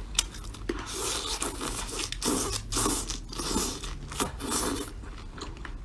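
Close-up chewing and biting of sauced skewered food, in a steady rhythm of about two chews a second, with a few sharp clicks.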